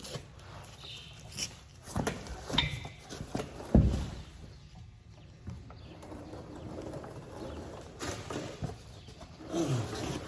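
A few sharp knocks and clinks of metal hardware being handled during a machinery repair, the loudest just before four seconds in.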